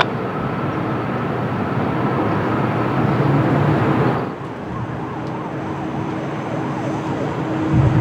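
Jet airliner engine noise: a steady rushing roar with a faint high whine, its hiss dropping sharply about four seconds in.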